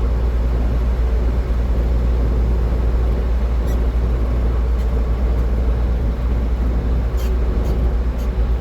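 A car driving, with a steady low rumble of tyres and engine and a few faint clicks near the end.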